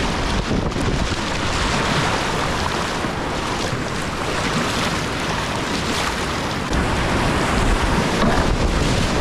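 Rushing river whitewater washing around a kayak, a steady loud roar of water noise that grows a little louder near the end, with wind buffeting the microphone.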